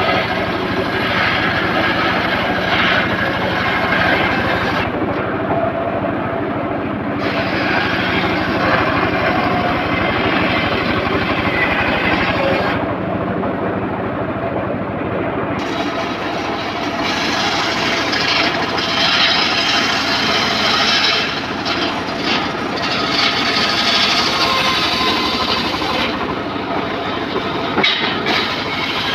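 Homemade circular sawmill running and sawing teak timber: a loud, continuous machine noise whose upper edge drops back and returns a few times.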